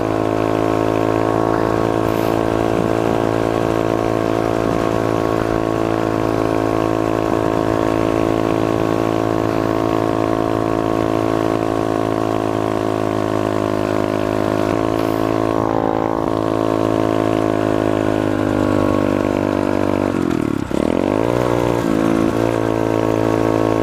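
SSR 125 pit bike's single-cylinder four-stroke engine running at a steady cruising speed under a rider. About twenty seconds in the engine note drops quickly, then rises again as it picks back up.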